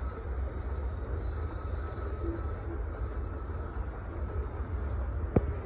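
Covered hopper cars of a freight train rolling past, a steady rumble of steel wheels on rail with a faint high steady ring. A single sharp knock comes near the end.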